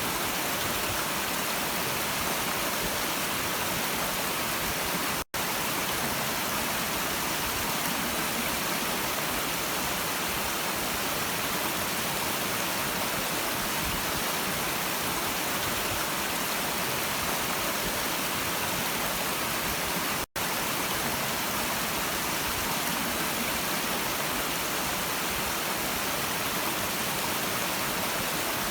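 A stream of water flowing in a steady, even rush. The sound drops out twice, very briefly, about fifteen seconds apart.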